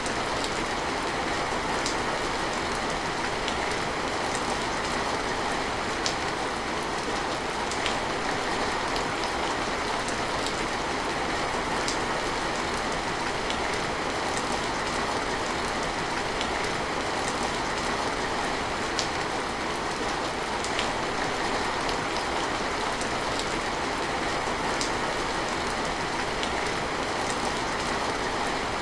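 Steady rain falling, an even hiss with scattered sharper drop ticks at irregular moments.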